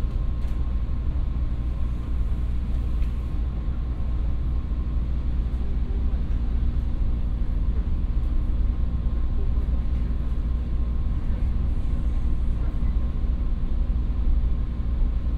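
Local train running at a steady speed, heard from inside the passenger car: a constant low rumble of the wheels on the rails, with a faint steady hum above it.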